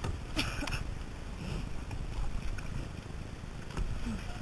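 Wind rumbling on the microphone of a kayak out on the sea, with water and paddling noise and a brief voice sound about half a second in.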